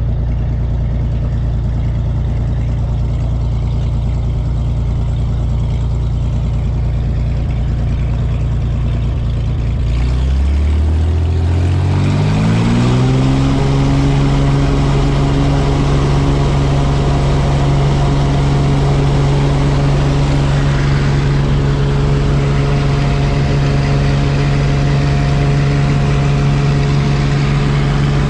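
A small seaplane's propeller engine, heard from inside the cabin: running at a low, steady speed, then throttled up about ten seconds in, its pitch rising over a few seconds to a higher steady note that holds.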